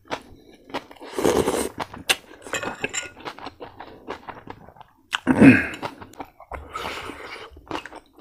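Close-up chewing and crunching of crispy fried pork, irregular crackles and crunches with a louder burst about five seconds in.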